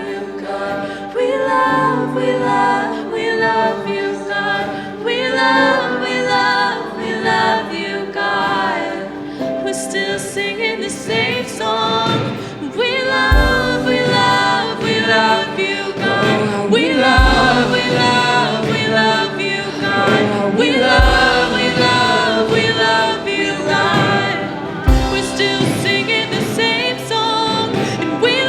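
Live gospel-style worship music with many voices singing together over sustained band chords. From about halfway through, a deep low hit lands roughly every four seconds.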